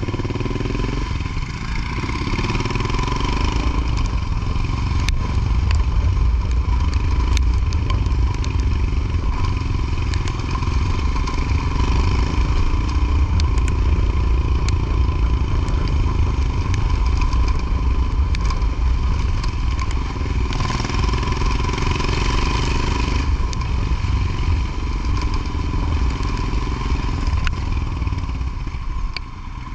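Motorcycle running while being ridden along, with a steady low rumble and a constant hiss. Scattered sharp clicks and rattles run through it.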